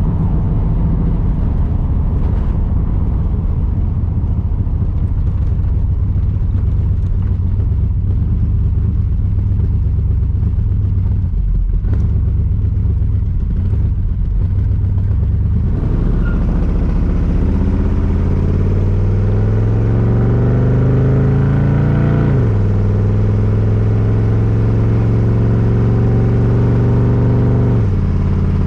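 1982 Camaro's 5.0 V8, with new mufflers, running under way. It cruises steadily, then accelerates from about 16 seconds in with a rising pitch, drops in pitch as the transmission shifts up cleanly about 22 seconds in, and holds steady before easing off near the end.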